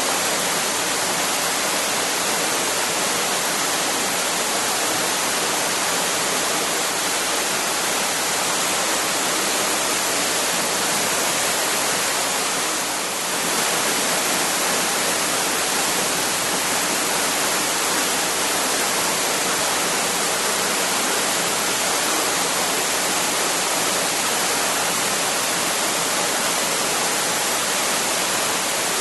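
Waterfall: a steady, unbroken rush of falling water, dipping slightly in level for a moment about thirteen seconds in.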